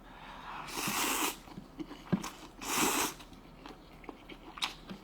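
Two short breathy rushes of air from a person eating hot food, each about half a second long, the second about two seconds after the first, followed by scattered light clicks of utensils.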